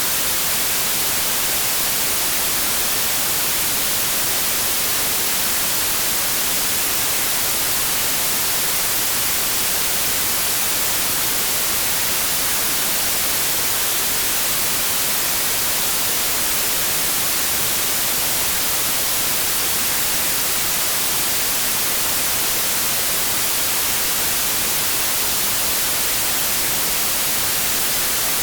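Synthetic white noise: a steady, even hiss of static that does not change, stronger in the high frequencies.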